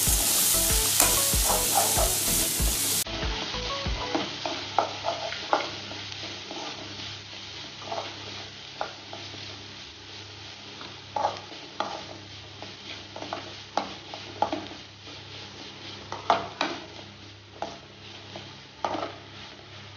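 Spatula stirring and scraping chopped onion and tomato masala around a metal kadai, with a steady sizzle of frying in oil. The scrapes come as irregular short strokes. The sizzle is louder for about the first three seconds, then drops to a quieter level.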